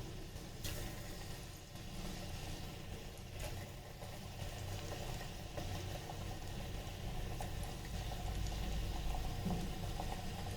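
Battered chicken pieces deep-frying in hot oil inside an electric kettle: a steady sizzle and bubbling, over a low hum, with a couple of faint light clicks.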